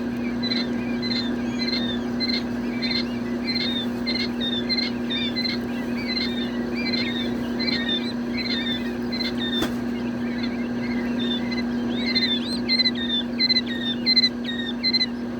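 A brooder full of chicks peeping: many short, high, down-sliding cheeps overlapping, several a second. Under them runs a steady low electrical hum.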